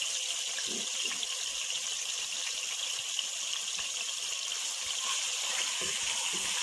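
Boneless chicken pieces frying in oil in an aluminium pot: a steady sizzle.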